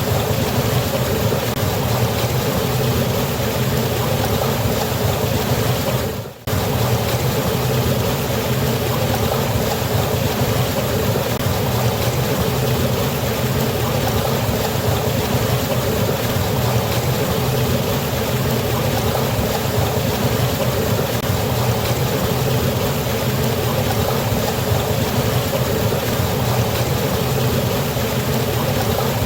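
Steady rushing of falling water from a waterfall, an even unbroken wash of noise. About six seconds in it drops out for a split second and comes straight back.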